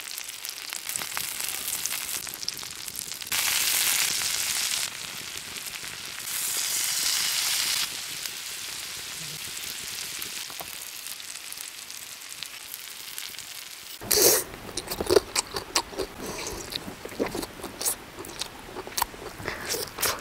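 A whole squid and sliced onions sizzling in oil on a hot stone slab, a steady frying hiss that swells louder twice for a second or two. About fourteen seconds in, it gives way to close-up crunchy bites and chewing, a run of sharp irregular crackles.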